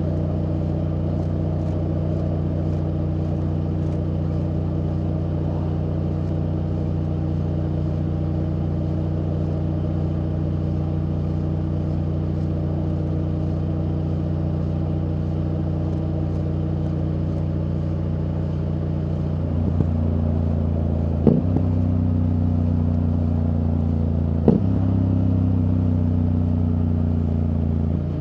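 BMW F800GS parallel-twin engine through an Akrapovič exhaust, running at a steady pitch. About two-thirds of the way in, the revs pick up and it pulls away, with two quick upshifts about three seconds apart, each a brief sharp break in the engine note.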